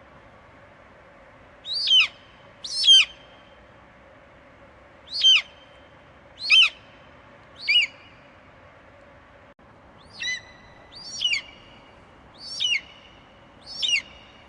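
An eagle screeching: nine short, high calls, each sliding sharply down in pitch, coming in ones and pairs a second or so apart over a faint steady hiss.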